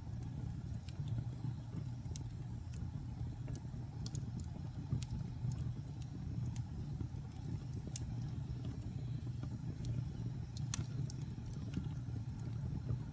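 Wood fire burning, with a steady low rumble of flame and scattered sharp crackles and pops of burning wood, one louder pop near the end.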